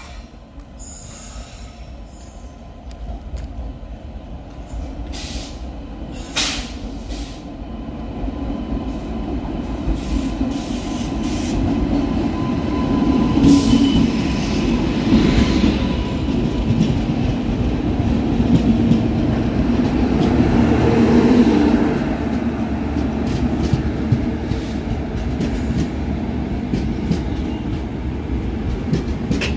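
Express passenger train rolling past on the track: the rumble of wheels builds over the first dozen seconds and then stays loud as the coaches go by. A few sharp clicks sound early on, and a faint steady wheel squeal runs through the first half.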